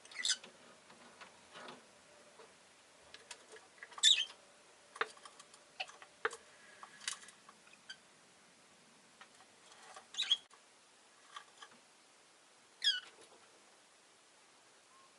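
Rosy-faced lovebird giving four sharp chirps, each a quick pitch drop from high to lower, spaced a few seconds apart, with faint small clicks and taps in between.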